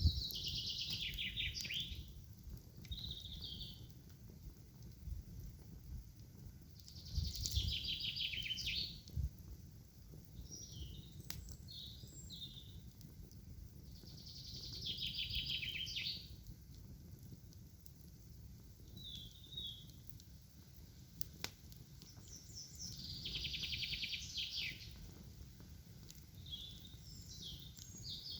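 A songbird singing the same short, rapid, falling trilled phrase about every seven to eight seconds, with shorter, softer calls between, over a low steady rumble and an occasional sharp click.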